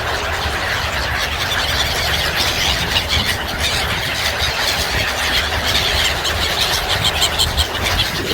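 A large flock of seabirds calling and squealing all at once, a dense unbroken chatter of many overlapping high calls, over a low rumble.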